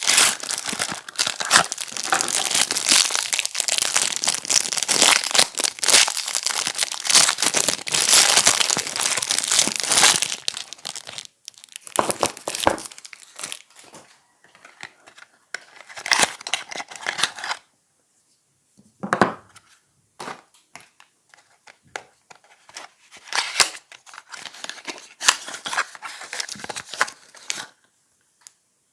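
Packaging around bars of soap crinkled and torn open by hand. Dense continuous rustling runs for the first ten seconds or so, then gives way to short separate bursts of crinkling with pauses between.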